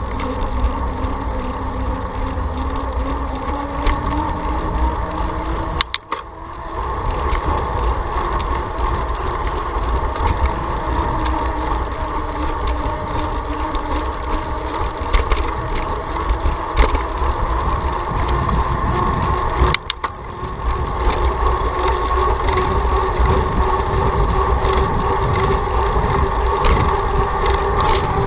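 Steady wind and road noise of a vehicle on the move, with a hum that rises slowly in pitch, dropping out briefly twice.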